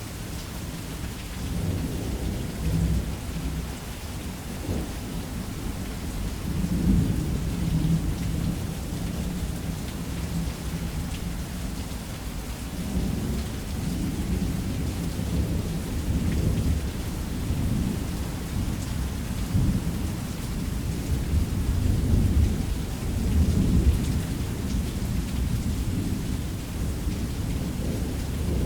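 Heavy rain falling steadily on a roof under a thunderstorm, with deep thunder rumbling on and off and swelling several times.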